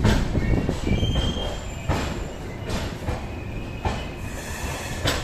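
Passenger train running on the rails, heard from on board, with high-pitched wheel squeal and a few sharp knocks about every second or two. The rumble eases off as the train slows.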